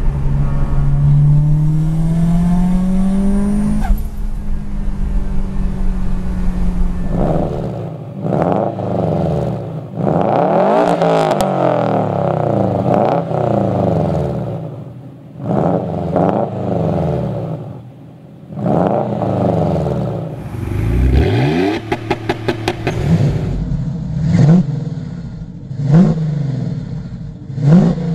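Performance car engines revving hard. First a car accelerates with a rising engine note, then comes a series of throttle blips that rise and fall. About twenty seconds in there is a quick string of sharp exhaust pops, followed by short, sharp revs near the end.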